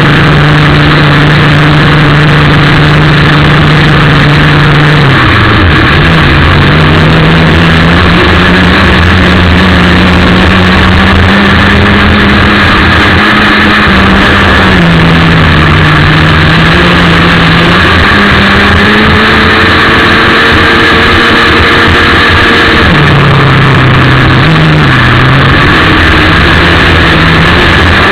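ASP .61 two-stroke glow engine of a radio-controlled boat running, heard very loud from a camera mounted on the boat. Its pitch rises and falls as throttle and load change, dropping about five seconds in and again near the end.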